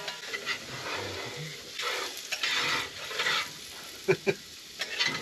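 Potatoes frying in butter in a pan, sizzling, with stirring and two sharp knocks about four seconds in.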